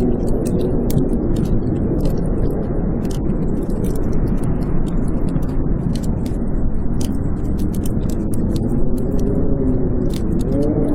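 Blizzard wind howling, its pitch wavering up and down over a steady roar, louder again near the end, with the sharp crackles and pops of a wood fire burning in a fireplace.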